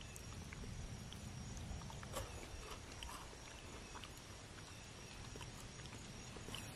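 Faint crunching of a KitKat wafer bar being bitten and chewed: scattered soft crackles and clicks, irregular, over a low rumble and a thin steady high tone.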